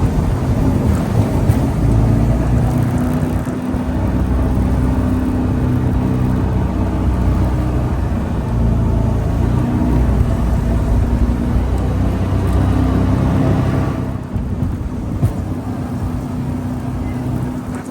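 Jet boat engine running hard, a steady drone under rushing wind and water noise; it eases off about fourteen seconds in.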